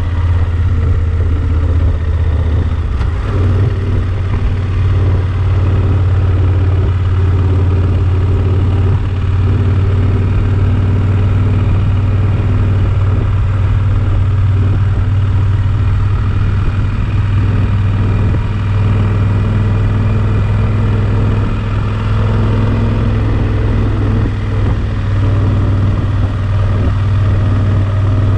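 Yamaha XT1200 Super Ténéré parallel-twin engine running at a steady, even pace, a constant low drone that holds the same pitch throughout.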